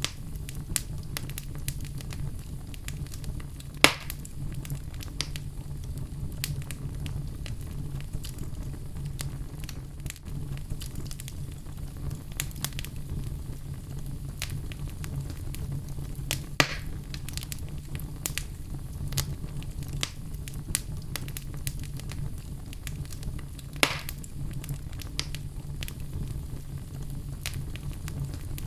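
Fire crackling in a fireplace: scattered small crackles and three louder pops, about 4, 17 and 24 seconds in, over a steady low rumble.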